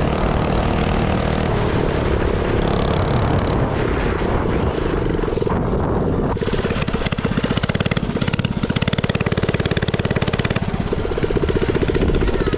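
Minibike's small engine running, steady for the first half, then settling into a slower, evenly pulsing chug about six seconds in.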